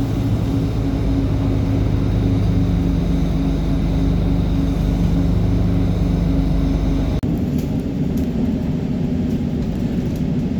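City transit bus engine running with a steady drone; about seven seconds in the sound changes abruptly to a rougher running noise with a few sharp clicks.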